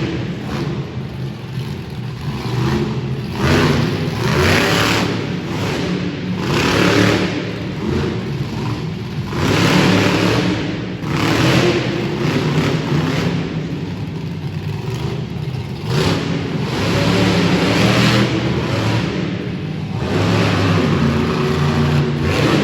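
Skull Krusher monster truck's engine running loud and revving hard, surging up and dropping back every second or two.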